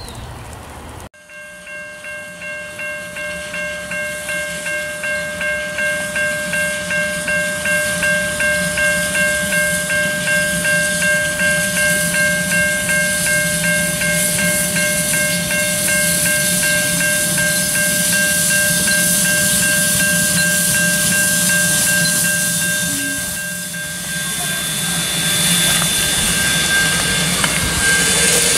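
Standing steam locomotive (NZR AB class Pacific, AB 608) hissing steam with several steady whistling tones in it, pulsing about one and a half times a second at first and then settling into a steady hiss. The hiss grows louder again near the end.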